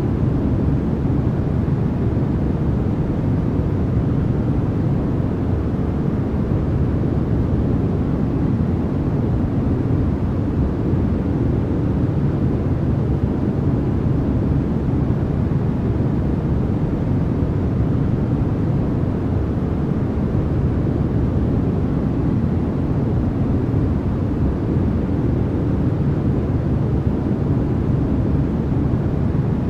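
Continuous synthetic noise played as a white-noise sleep track. It is a steady, unchanging rush, deep rather than bright, with most of its energy low and little high hiss.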